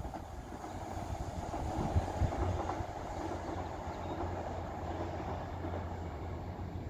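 The Royal Train, diesel-hauled, running away into the distance: a steady low rumble of the locomotive and wheels on the track.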